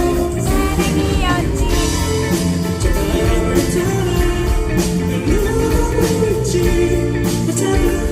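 Live band playing an instrumental break in a pop-rock song: guitar over a steady drum beat.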